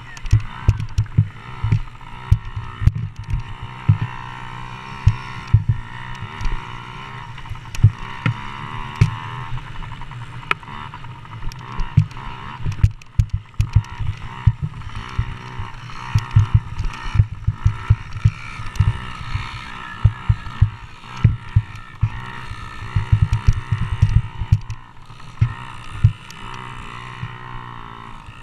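Motocross bikes' engines racing around the track, their pitch rising and falling as riders throttle on and off, with frequent short low thumps.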